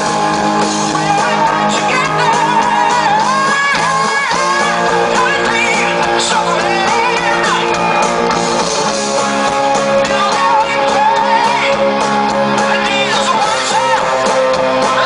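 A band playing with a male lead singer belting and gliding through long sung runs over held chords and guitar.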